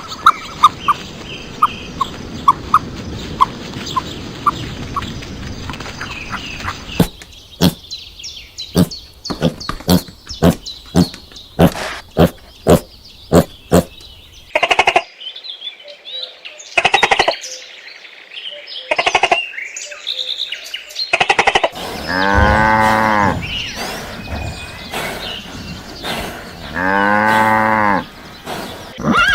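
Cattle mooing: two long, loud moos near the end, each rising and falling in pitch, about five seconds apart. Before them come a steady series of short bird chirps, about two a second, then a run of sharp clicks and brief noises.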